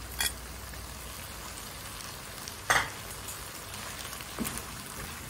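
Chopped green beans and minced meat in tomato sauce sizzling steadily in a frying pan as a spatula stirs them, with three knocks of the spatula against the pan, the loudest near the middle.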